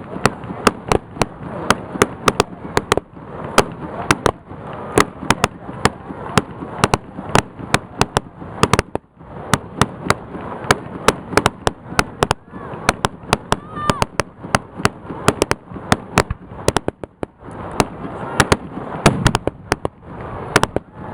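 Fireworks display: a dense run of sharp bangs and crackling pops, several a second, with a brief lull about nine seconds in.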